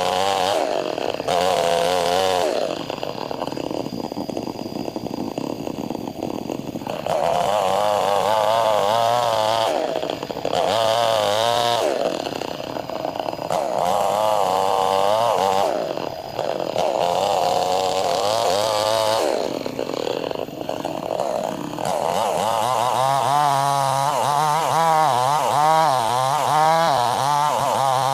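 Chainsaw cutting along a log to split it, the engine at full throttle with its pitch wavering under load. Several times it eases off to lower revs for a second or few, then revs up and cuts again.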